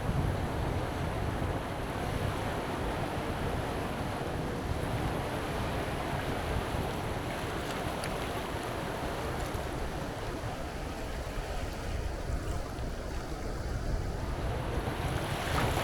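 Strong wind buffeting the microphone with a deep rumble, over the steady wash of surf on a beach. The surf sound eases for a few seconds past the middle, then swells again near the end as another wave comes in.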